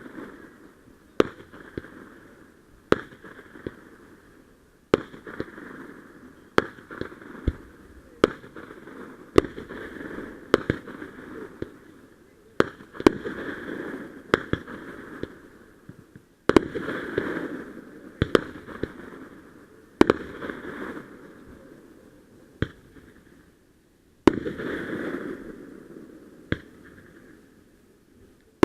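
Fireworks going off in a show: a sharp bang every one to two seconds, each trailing off over a second or so.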